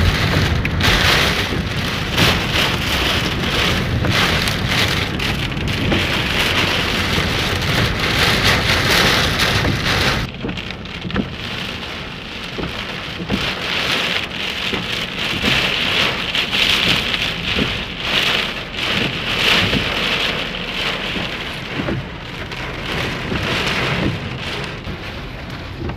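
Heavy rain pelting down in a strong windstorm, a dense steady hiss with a low wind rumble beneath; it gets a little quieter about ten seconds in.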